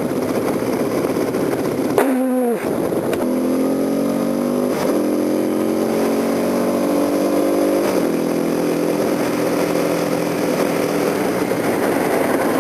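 Kawasaki KLX250SF supermoto's single-cylinder engine accelerating through the gears, its revs rising and then dropping at upshifts about five and eight seconds in before settling to a steady cruise, over wind noise on the microphone.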